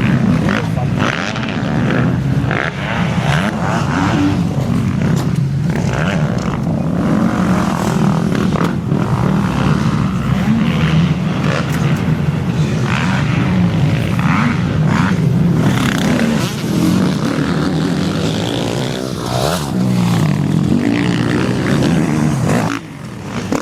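Motocross bikes riding on a dirt track, several engines at once revving up and falling back as they overlap; the level dips briefly near the end.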